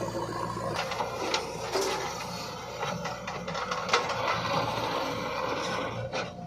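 JCB 3DX backhoe loader's diesel engine running while the machine works, with a string of knocks and clicks over it; the sharpest knock comes about four seconds in.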